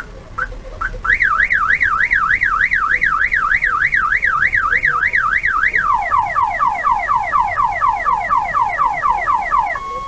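Car alarm sounding. An electronic tone warbles up and down about three times a second, then switches to rapid falling chirps, about five a second, which stop shortly before the end.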